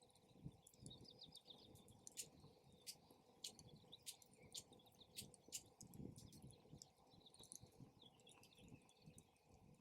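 Faint campfire crackling, with sharp wood pops every half-second or so. Small birds chirp in the background, with trills of quick high notes early on and a longer call near the end.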